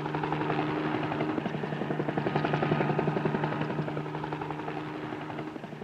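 Helicopter in flight, its engine and rotor making a steady drone with a rapid, even beat of the blades, slowly fading a little toward the end. Heard through the thin sound of an old 16mm film soundtrack.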